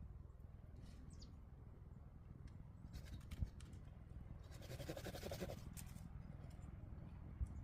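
A brief spell of sawing about five seconds in, a rasping stroke of a saw cutting wood, with a few sharp clicks shortly before it. A single bird chirp sounds about a second in, over a low steady rumble.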